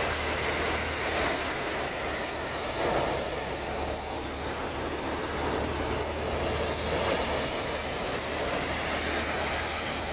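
New Holland tractor running steadily while driving a Reddy paddy thresher: a constant low engine hum under the continuous rushing hiss of the threshing drum.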